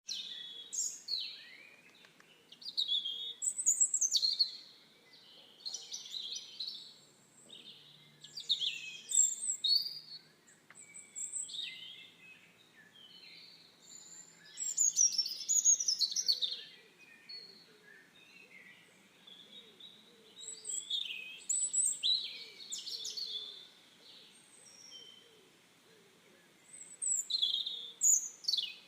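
Birds singing: short, quick chirping phrases, high-pitched, coming every second or two with brief pauses between.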